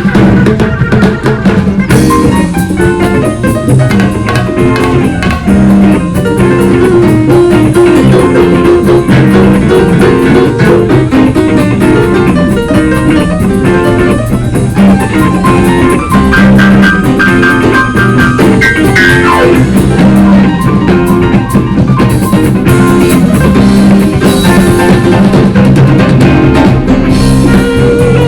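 Band music with electric guitar and a drum kit, loud and continuous.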